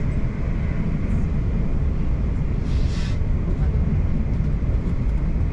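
Steady low rumble of a South Western Railway electric passenger train running along the track, heard from inside the carriage, with a brief hiss about three seconds in.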